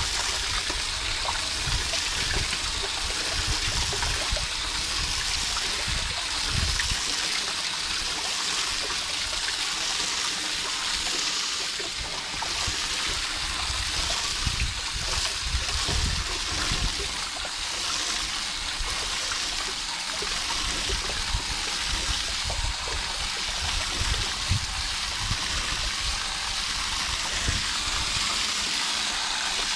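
Garden hose spray nozzle jetting water steadily onto an AC condenser unit's coil fins, a continuous hissing spray with water splashing off, to wash out dirt and debris, with irregular low rumbles underneath.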